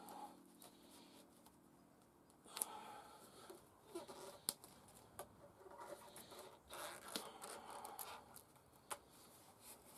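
Near silence with faint scattered clicks and rustling.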